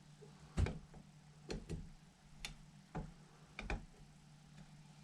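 Light, irregular clicks and taps of a small screwdriver working the screws on a motorcycle carburetor as they are snugged down, about seven in a few seconds.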